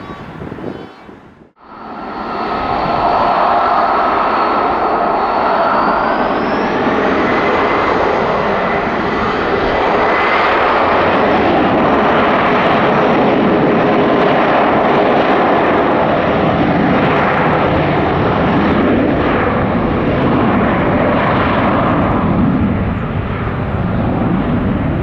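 Embraer E175's twin turbofan engines spooling up to takeoff thrust. A fan whine rises in pitch over the first several seconds, then the jet noise stays loud and steady.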